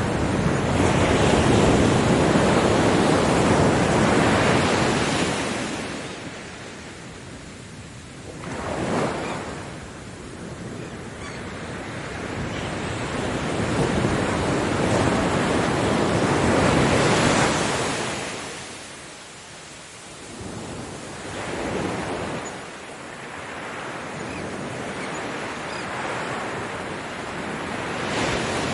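Ocean waves breaking on a beach, surging and receding in slow swells every several seconds. There is a hiss of wash between the breakers, and wind on the microphone.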